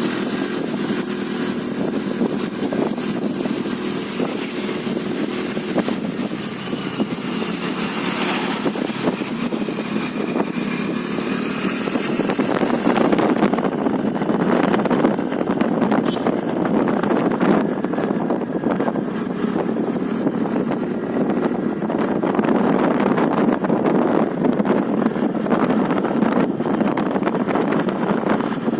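Honda Dio scooter riding along, its small engine running steadily under wind and road noise; a higher whine comes and goes for a few seconds about eight seconds in.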